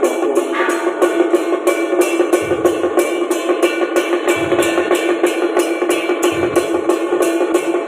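Procession percussion band playing: cymbals struck in a steady beat of about three to four strokes a second, with a deep drum hit about every two seconds and a sustained pitched tone under it.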